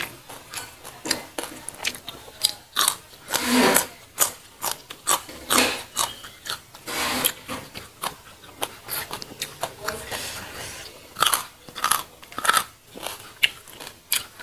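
Close-miked biting and chewing of crunchy raw vegetables: a quick, uneven run of wet crunches and clicks, several a second, with louder crunches every second or two.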